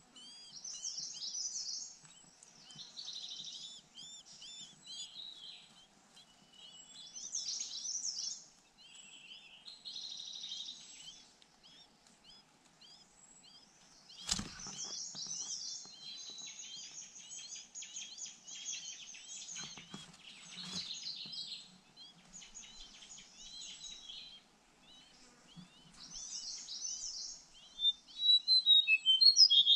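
Pancawarna birds at the nest: chicks begging for food with rapid, high, repeated chirps in clusters while the parent feeds them. There is a single knock about halfway through, and the chirps grow louder and sharper near the end.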